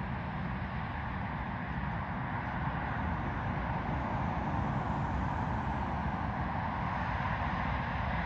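Jet airliner engines running steadily, growing slightly louder about three seconds in.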